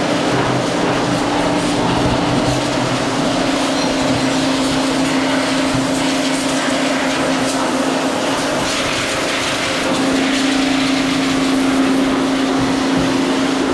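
A small motor running steadily at a constant speed, giving a loud, even hum that holds one pitch.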